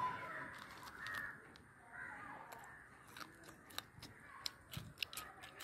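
Faint bird calls, several short calls spread through, with a few soft sharp clicks in the second half.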